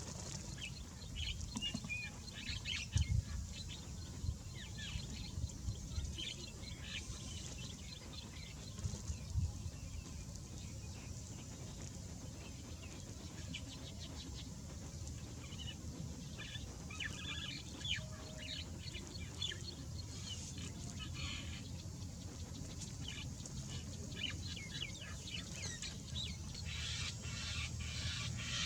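Birds calling: many short, high chirps and clucks scattered throughout, over a steady low rumble, with a few low thumps in the first ten seconds.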